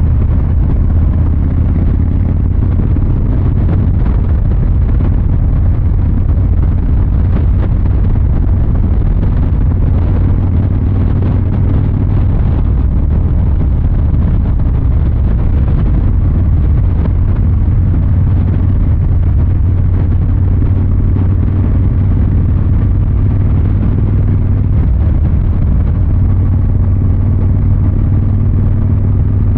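Harley-Davidson Fat Boy 114's Milwaukee-Eight 114 V-twin running steadily under way through its exhaust, with only small shifts in engine note.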